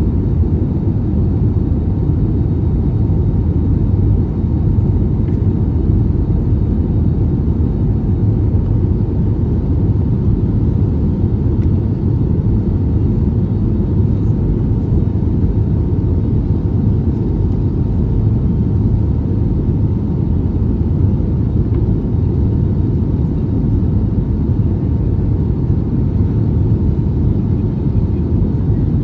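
Steady low cabin rumble inside an Airbus A320neo in flight: the drone of its CFM LEAP-1A engines mixed with airflow noise, with a faint constant hum above it.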